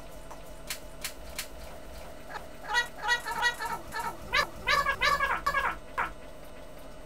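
A lecturer's voice badly garbled by a faulty recording, coming through in broken, distorted stretches from about two and a half seconds in, after three sharp clicks near the start.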